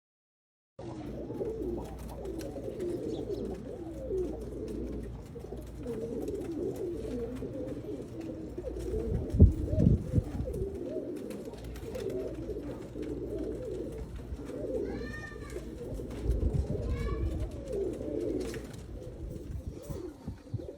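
Several Qatif pigeons cooing, their low wavering coos overlapping without a break from about a second in. A few low thumps come near the middle, and short higher-pitched calls come about three-quarters of the way through.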